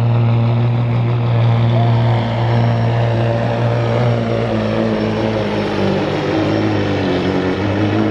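Kenworth semi truck's diesel engine running hard under load as it drags a weight-transfer pulling sled down the track: a loud, steady drone.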